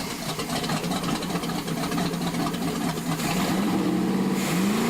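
Chris Craft performance boat's engine, just started, idling steadily, then revved up and back down twice in quick succession near the end. The men describe it as running dirty.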